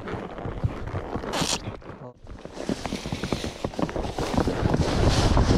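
Irregular knocking hoofbeats of a horse being ridden. From about two seconds in, wind rushes over the microphone.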